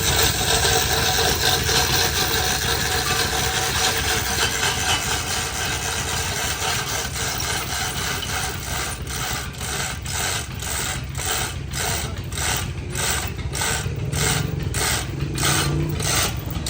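Machinery running steadily with a mechanical whirr. From about halfway through, a regular clatter comes in at roughly one and a half beats a second.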